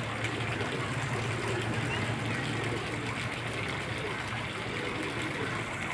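Domestic pigeons cooing softly in repeated low rising-and-falling calls over a steady low hum.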